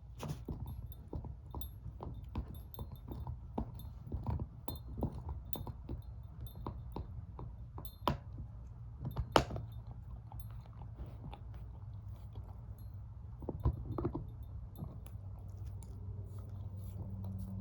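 Shepherd-mix dog gnawing on a bone: quick crunches and clicks of teeth on bone, many in a row at first, with one sharp loud crack a little over nine seconds in, then slower, scattered chewing.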